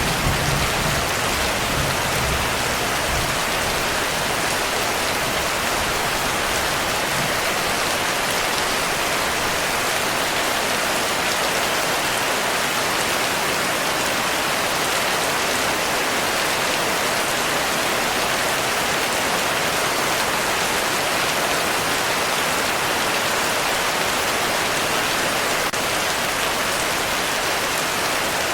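Steady heavy rain, a dense even hiss. A low rumble of thunder dies away in the first few seconds.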